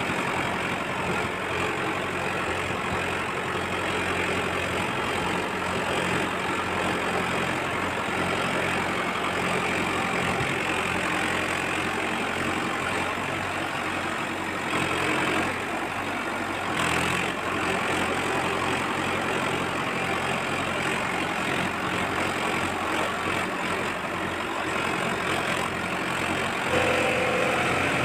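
Steady tractor-style engine running sound, like a diesel tractor idling, with a short sharp noise about 17 seconds in and a rise in loudness near the end.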